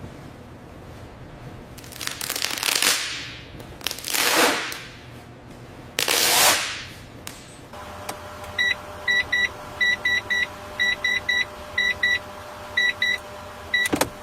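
Three rising-and-fading whooshes, followed by a run of short electronic beeps at one pitch, coming in quick irregular groups over the last several seconds.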